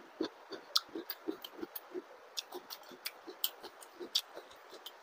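Close-miked chewing mouth sounds: irregular smacks and clicks, several a second.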